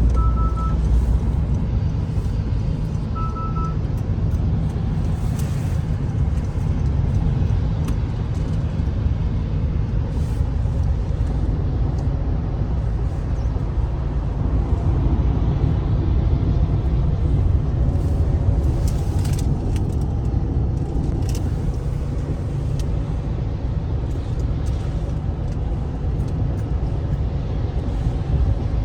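Steady low road and tyre rumble inside the cabin of a 2023 Honda CR-V Touring Hybrid driving at highway speed. Two short two-tone electronic beeps sound at the start and again about three seconds in.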